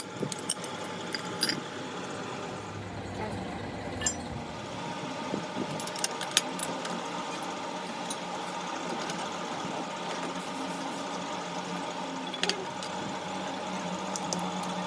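A workshop machine running steadily with a hum, with scattered sharp metallic clicks and taps over it.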